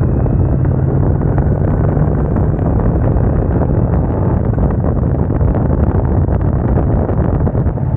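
Chopper motorcycle engine running steadily under way, with wind noise on the microphone.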